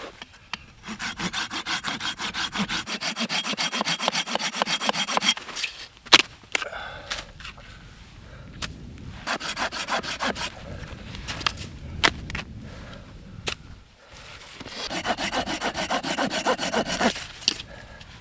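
Hand saw cutting wood in three bouts of quick, even strokes, with a few sharp knocks between bouts.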